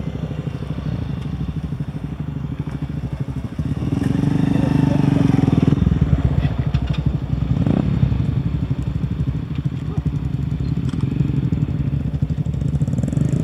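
Motorcycle engine running, growing louder about four seconds in, with a few short clattering knocks.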